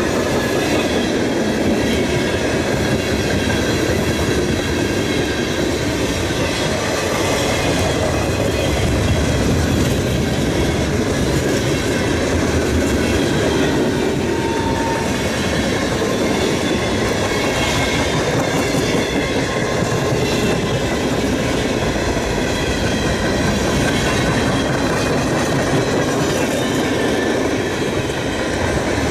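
A train's cars rolling past on the rails, with a steady noise of wheels on track and faint high-pitched wheel squeal.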